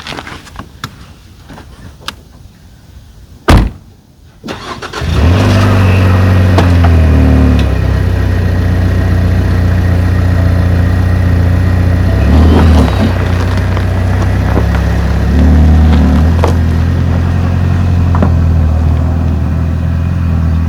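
Ford Maverick Tremor's 2.0-litre turbocharged four-cylinder engine starting about five seconds in and then running steadily, with a couple of changes in engine speed. A loud thump comes just before it, a car door shutting, after a few light clicks.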